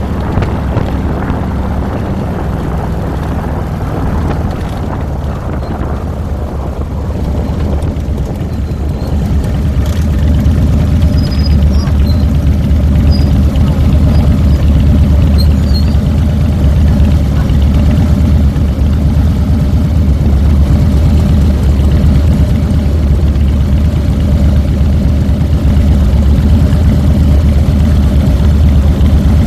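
2007 Harley-Davidson Fat Boy's V-twin engine running under way, with a deep, steady low note that grows louder about a third of the way in and holds there.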